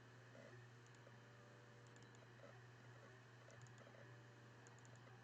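Near silence: a steady faint electrical hum with a few faint clicks in small clusters.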